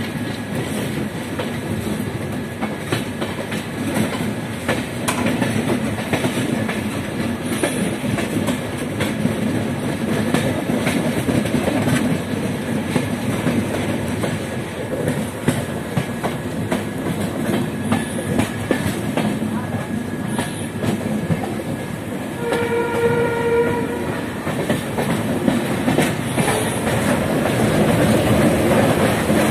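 A passenger train running, heard from beside its coaches: a steady rumble of wheels on rail with scattered clicks of the wheels over rail joints. About two-thirds of the way through, a train horn sounds one steady note for about a second and a half.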